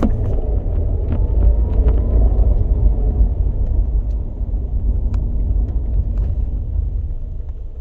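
2007 Scion tC on the move: a heavy low rumble with a wavering mid-pitched grinding tone over it for the first few seconds and scattered light clicks, the rumble easing slightly near the end.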